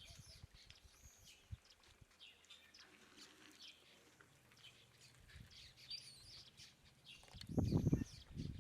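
Several birds chirping and calling in quick short notes, with a low rumble, louder than the birdsong, about seven and a half seconds in.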